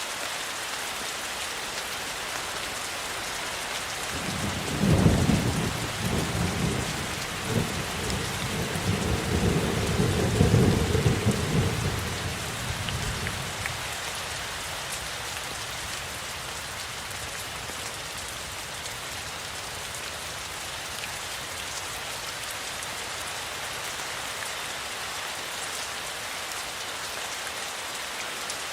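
Steady rain falling. A low roll of thunder sets in about four seconds in, swells twice, and fades out after about nine seconds.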